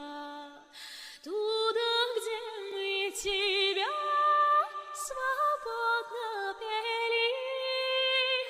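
A solo voice singing a slow, drawn-out melody unaccompanied, holding long notes with vibrato and sliding between them, with short breaths between phrases.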